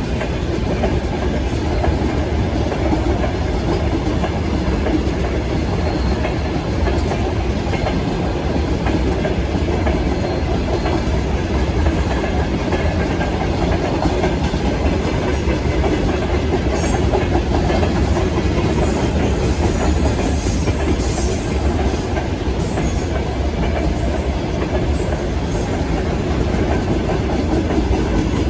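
A train running past at speed, its wheels clattering over the rail joints in a steady loud rumble. Brief high-pitched wheel squeals come in from a little past halfway.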